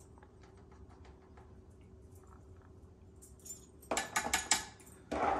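Light clicks and clinks of a measuring spoon and spice container as black pepper is measured out, with a quick run of louder rattling clinks about four seconds in and another brief one near the end.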